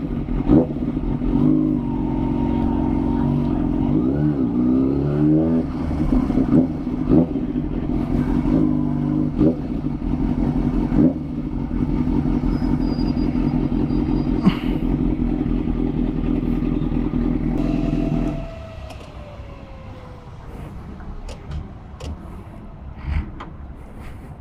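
Kawasaki ZX-6R inline-four engine running at low speed with small rises and falls in revs, then switched off about three-quarters of the way in. After it stops, a faint whine slides down in pitch as something winds down, with a few small clicks.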